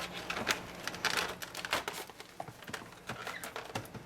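Hands handling plastic packaging: irregular rustling and light clicks.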